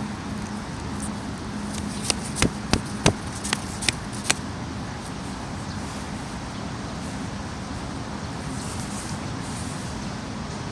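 Steady rush of heavy rain and running water. A quick run of about eight sharp knocks falls between two and four seconds in.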